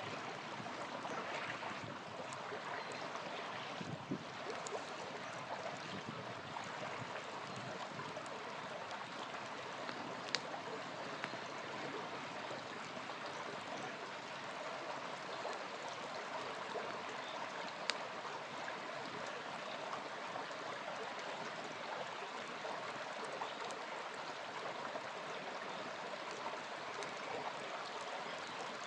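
Small river flowing with a steady rushing and trickling, and a campfire crackling, with a few sharp pops standing out above the water.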